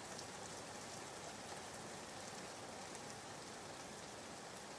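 Soft, steady rain ambience: an even hiss of falling rain with faint scattered drop ticks, used as background white noise.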